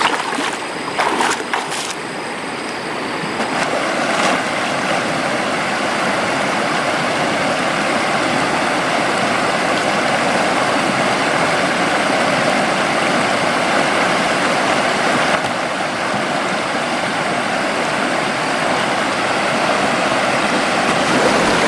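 River water rushing steadily, a loud even hiss with no pitch to it, preceded by a few sharp knocks in the first two seconds.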